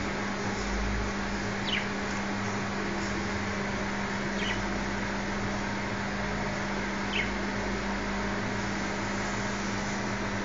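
A budgerigar giving three short chirps that fall in pitch, a few seconds apart, over a steady background hum and hiss.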